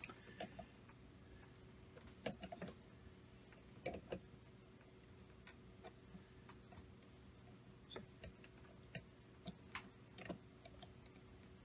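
Faint, scattered clicks and taps of small metal parts and a hand tool being handled while a nut on the air engine's slider valve is adjusted, over a faint steady hum.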